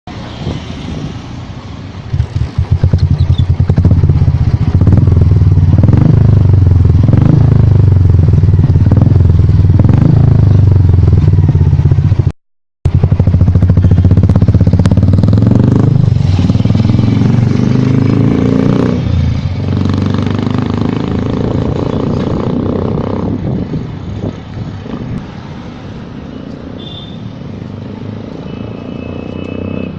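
Single-cylinder Royal Enfield engine running through a Big Cobra aftermarket exhaust, accelerating hard with a loud, evenly pulsing exhaust note. Its pitch shifts several times as the gears change, and the sound eases off near the end. There is a brief break in the sound near the middle.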